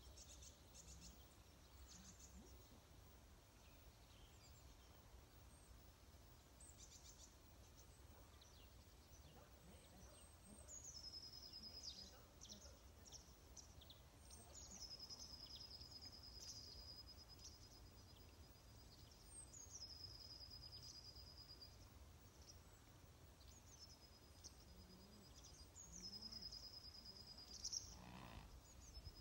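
Near-silent outdoor ambience with a low steady rumble, over which a songbird sings faintly and repeatedly: each phrase falls from a high note into a long, level trill, coming every four to five seconds from about a third of the way in. A single short knock sounds near the end.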